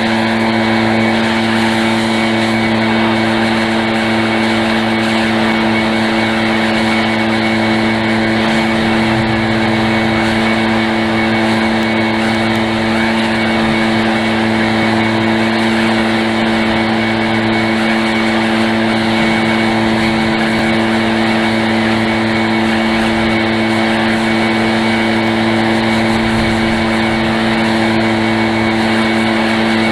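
Small gasoline engine of powered lawn equipment running steadily at a constant high speed, with a loud, even drone.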